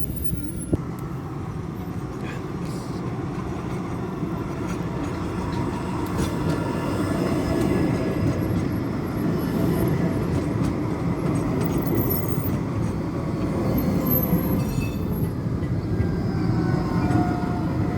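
Tram running along the track: a steady rumble of wheels on rails that grows slightly louder in the second half, with faint high squeals from the wheels now and then.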